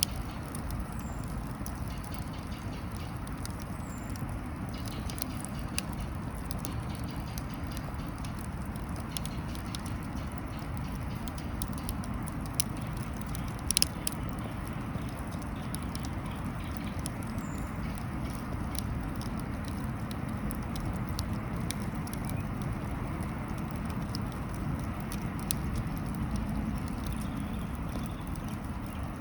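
Wood fire burning in a small grill, a steady low rush with scattered pops and crackles throughout; one sharper, louder pop about 14 seconds in.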